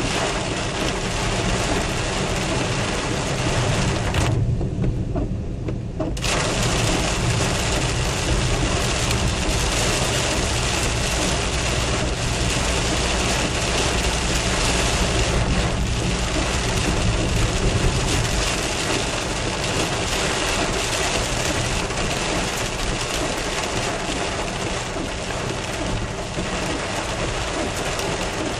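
Heavy rain pelting a moving car, with the car's engine and tyres running low underneath. The rain noise drops away almost completely for about two seconds, some four seconds in, while the engine carries on, then comes back as strong as before.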